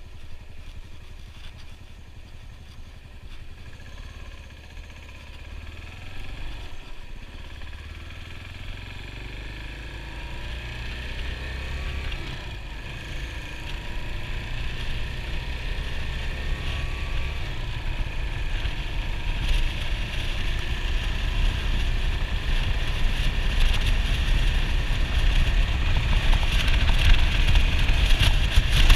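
Yamaha SR400's air-cooled single-cylinder engine running as the motorcycle is ridden, with wind noise on the microphone that grows as it goes. The whole sound gets steadily louder through the second half, as if speed is building.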